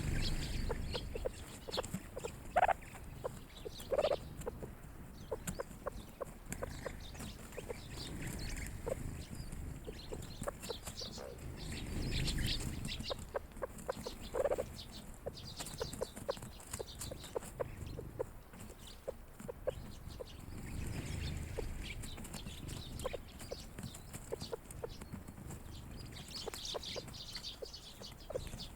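A flock of grey partridges feeding, giving soft clucking calls with a few short louder call notes, among many small ticks.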